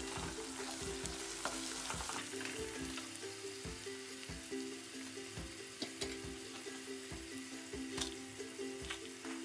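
Sliced onions and green chilies sizzling in oil in a nonstick frying pan, with the clicks and scrapes of a wooden spoon stirring them. A background melody plays underneath.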